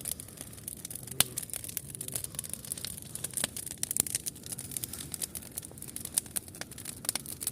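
Wood campfire crackling: irregular sharp snaps and pops of burning wood, with one louder snap about a second in.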